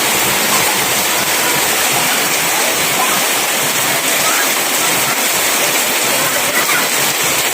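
Heavy rain pouring down steadily: a loud, even hiss of falling water.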